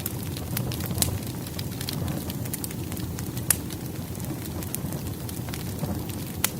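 Firewood burning in a fireplace: a steady low rumble of flames, with irregular sharp crackles and pops from the logs. The loudest pop comes about three and a half seconds in.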